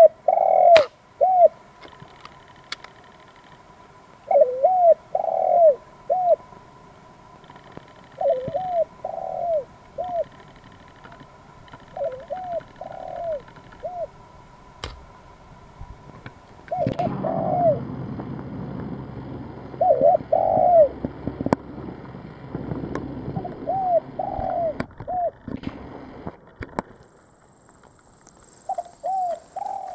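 Spotted doves cooing: a short phrase of three or four rounded coo notes, repeated about every four seconds. A broad noise lies under the cooing from about halfway through.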